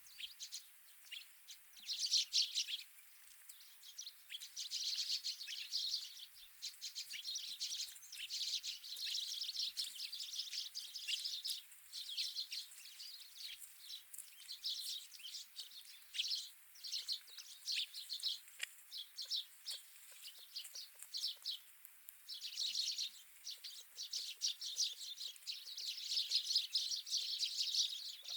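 A flock of small wild birds chirping and twittering, many short high calls overlapping almost without pause, in louder spells about two seconds in, for several seconds from about five seconds, and again near the end.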